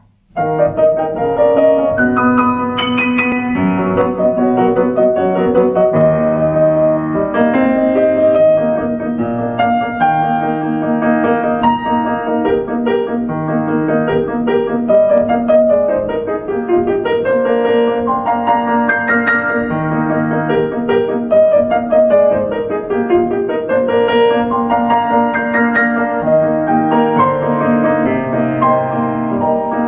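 Solo piano playing an accompaniment to a song melody, starting about half a second in after silence, with no voice.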